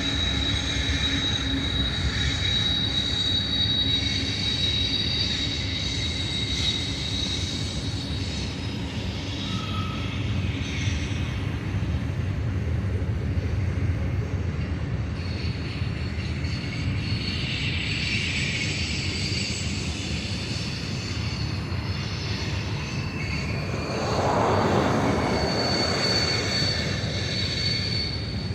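Freight cars of a BNSF manifest train rolling past in a steady low rumble, with high-pitched steel wheel squeal coming and going over it. The rumble swells louder near the end.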